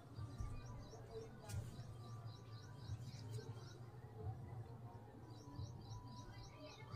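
Faint background sound: a low steady hum with a bird chirping in quick runs of short high notes, about four a second, and a light click about one and a half seconds in.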